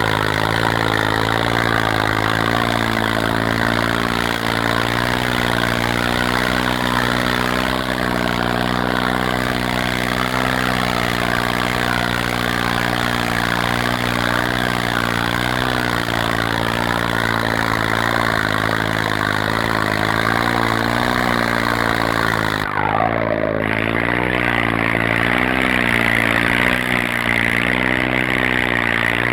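John Deere tractor engine running hard under load, its pitch wavering slowly up and down. A short falling tone cuts across it about three-quarters of the way in.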